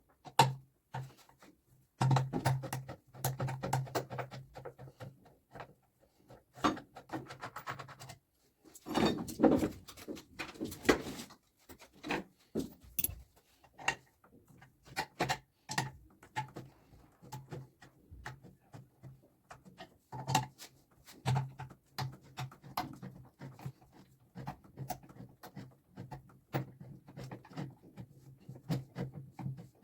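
Irregular clicks and knocks of hand tools on washing-machine parts during repair work, with a denser clatter about nine seconds in. A low hum comes and goes underneath.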